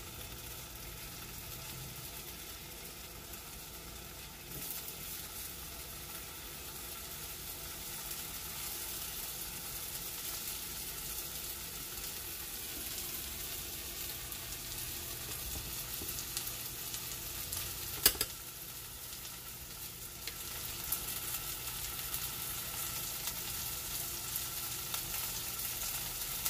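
Sliced tomatoes frying in butter in a nonstick pan: a steady sizzle that grows louder twice, with spatula stirring at the start. One sharp click about two-thirds of the way through.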